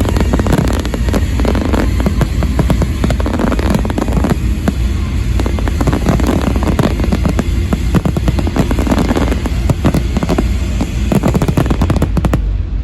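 Fireworks display in a full barrage: rapid, overlapping bangs and crackles, thinning a little near the end.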